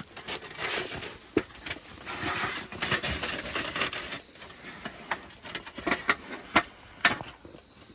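Camp cookware being handled: irregular knocks and clinks with two stretches of scraping or rustling, the first about half a second in and a longer one around the middle.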